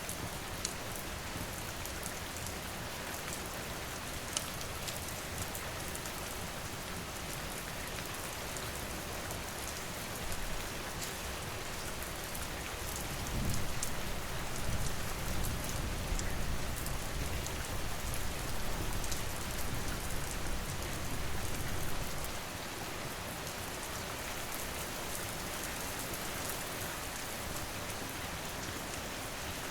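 Steady rain falling, with scattered sharp crackles from a wood fire. A low rumble swells for several seconds in the middle, then fades back to the rain alone.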